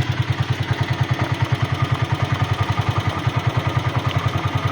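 A small motorcycle engine idling steadily with an even, fast pulsing beat.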